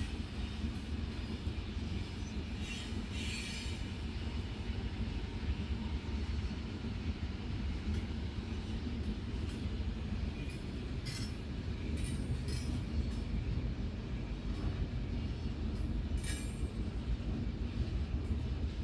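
Long Mauritanian iron-ore freight train rolling past with a steady heavy rumble from its wagons, broken by a few brief high-pitched metallic noises.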